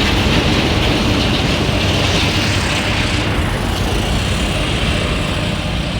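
Hyundai 25-ton cargo truck's 12.9-litre six-cylinder diesel running steadily.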